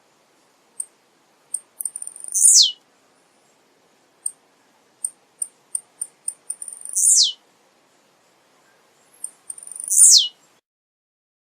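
Male blue-black grassquit (tiziu) singing: three short songs a few seconds apart, each a very high note falling steeply in pitch, with short high ticks in between.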